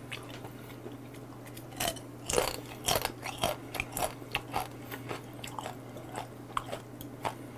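Chewing a raw, spicy-seasoned whole sentinel crab (chilge), its shell crunching between the teeth in irregular sharp crackles that start about two seconds in.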